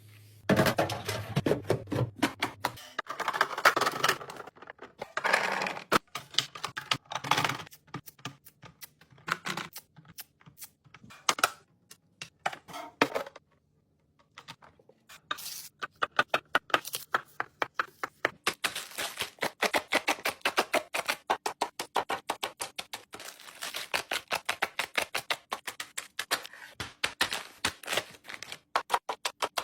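Runs of quick clicks and taps from hard plastic containers and food packaging being handled and set down while a fridge is organised, with short stretches of rustling between them and a brief pause about halfway through.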